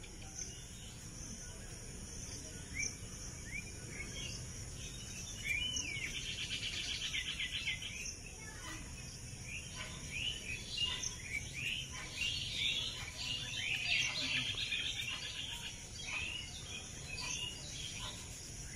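Small birds chirping and calling in short, quick notes, with a fast trill of rapidly repeated notes about six seconds in and a dense burst of chirps near the middle, over a steady high hiss.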